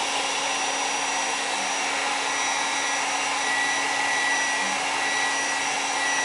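Handheld hair dryer blowing steadily: a constant rush of air over a low motor hum, with a faint high whine.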